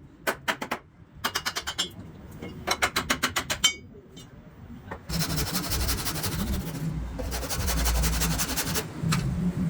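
Quick runs of sharp tapping strikes, about ten a second at their fastest, then from about five seconds in a dense scraping noise over a low rumble.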